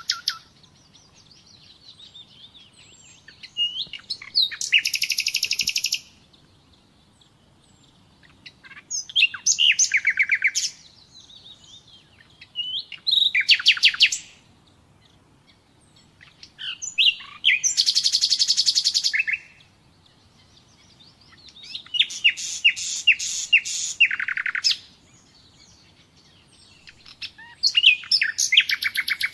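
Common nightingale singing: about six loud song phrases, each a fast run of repeated notes lasting one to two seconds, with short pauses between them.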